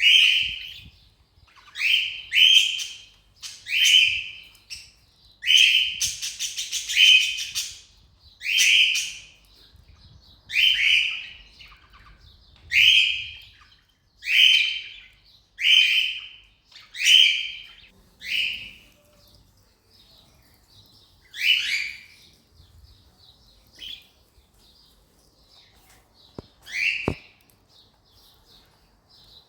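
Cockatiel giving short, shrill contact calls over and over, about one every second or two, with a few seconds' pause about two-thirds of the way through before a couple more calls.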